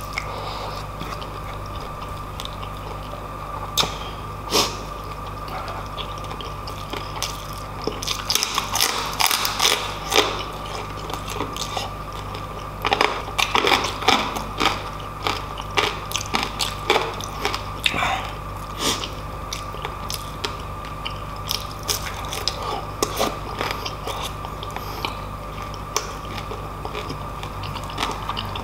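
Close-miked mouth sounds of a person chewing rice and crispy fried pork eaten by hand: wet chewing with crackly crunches and smacks, busiest about a third of the way in and again around the middle, sparser at the end.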